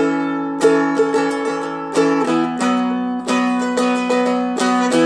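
Seagull Merlin M4 four-string strumstick picked with a flatpick, chords and melody notes struck about once or twice a second and ringing on over sustained drone strings.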